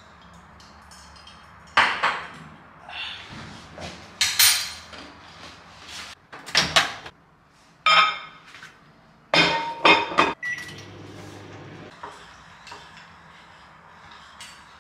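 Kitchen clatter: a run of sharp knocks and clinks as a small ceramic dish is set into a microwave oven and its door is handled, with a short beep a little past the middle.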